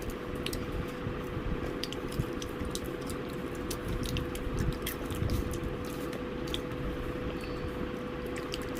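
Close-up chewing and wet mouth sounds of someone eating fried chicken, with frequent small clicks and smacks.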